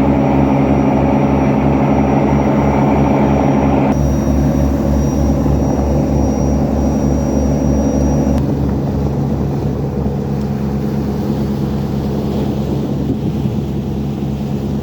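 Tugboat diesel engine running during a sea trial: a steady low drone with a regular throbbing pulse of several beats a second. The sound shifts about four seconds in and gets slightly quieter about eight seconds in.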